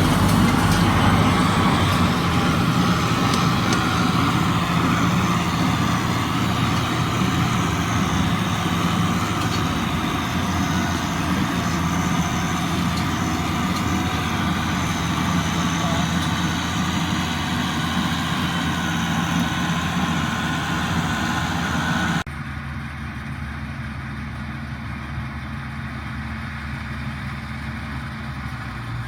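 1977 International Harvester 886 tractor's six-cylinder diesel engine running steadily. About 22 seconds in, the sound drops suddenly to a quieter, duller level and goes on running.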